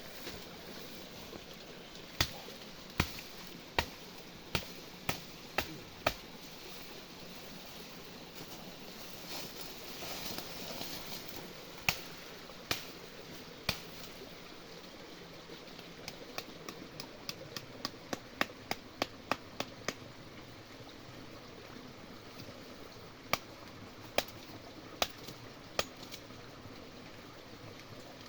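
Repeated sharp knocks and taps in irregular runs, several strikes a second at their densest, over a faint steady hiss.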